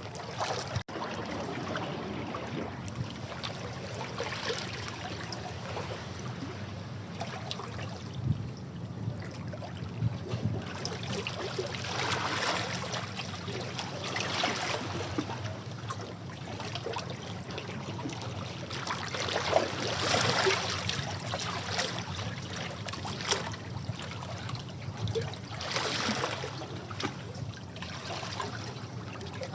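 Sea waves washing over rocks, swelling about every six to seven seconds into a louder wash, with fizzing water and a low rumble of surf between.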